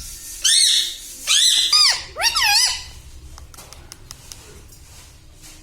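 Pet parrot making four short, high, squeaky calls in quick succession over the first three seconds, each bending up and down in pitch, followed by a few faint clicks.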